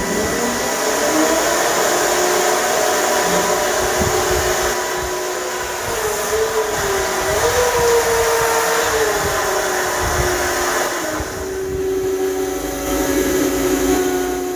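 Small engine on a homemade 1/5-scale dump truck running steadily, its pitch wavering up and back down about six to eight seconds in.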